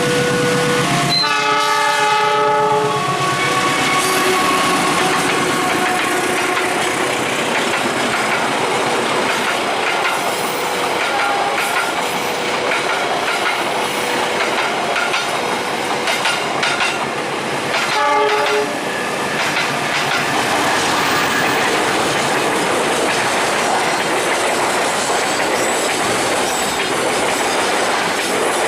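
Trains running through a railway level crossing, with steady wheel and rail clatter. A long blast of the locomotive horn about a second in and a short blast around two-thirds of the way through. Faint repeating tones of the crossing's warning signal run underneath.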